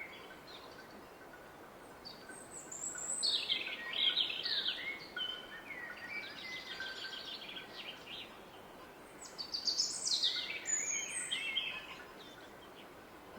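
Woodland songbirds singing in two bursts of rapid, falling high notes, one about three seconds in and another about nine seconds in, over the steady rush of a distant river.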